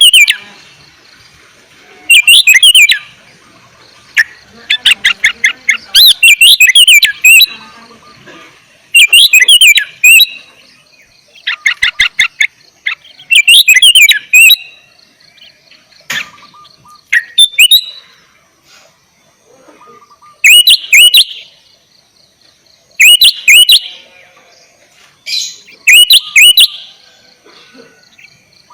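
Sooty-headed bulbul singing loud, short bursts of quick, bubbling notes, repeated about every two to three seconds with brief pauses between phrases.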